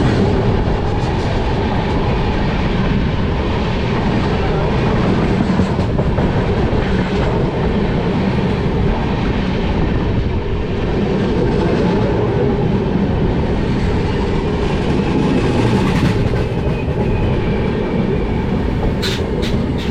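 Passenger train running: a steady loud rumble of the coach on the rails, with a few sharp clicks near the end.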